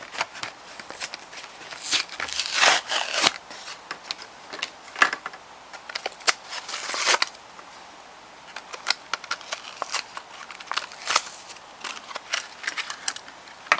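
Crinkling and crackling of a toy car's plastic-and-cardboard blister pack being handled and torn, in irregular bursts and clicks that are busiest in the first half.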